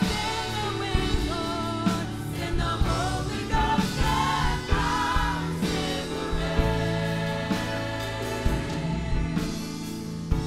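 Choir singing a gospel song over instrumental accompaniment, with a steady beat.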